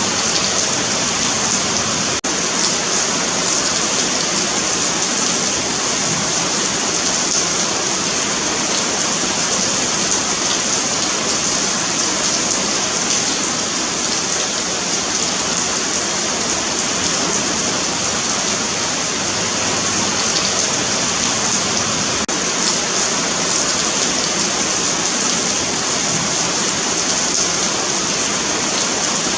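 Steady rain falling on a paved sidewalk: a dense, even patter of drops on pavement with a hissing high edge.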